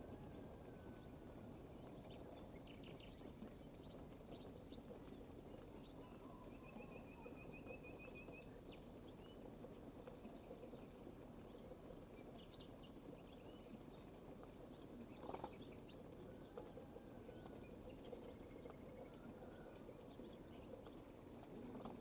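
Faint birdsong: scattered short chirps and calls, with a brief rapid trill about seven seconds in, over a steady low background hush. There is one soft tick near the middle.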